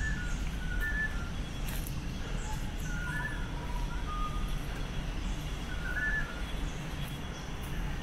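Forest birds giving short, clear whistled notes, scattered through and some rising and falling in pitch, over a steady low rumble.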